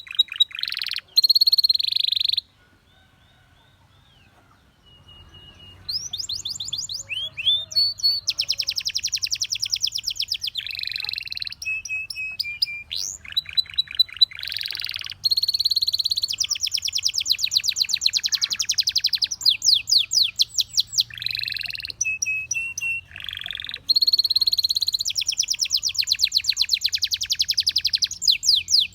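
Domestic canary singing: long, high-pitched trills of rapidly repeated notes, one tour running into the next. After about two seconds the song breaks off for roughly three seconds, then resumes.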